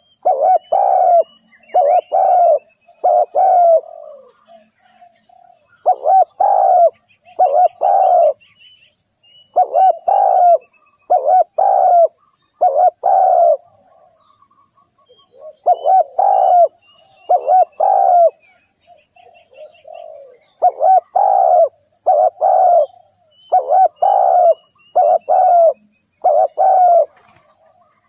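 Spotted dove cooing in repeated phrases of three to five low, rhythmic coos, one phrase about every four to five seconds. Faint high chirps of small birds sound between the phrases.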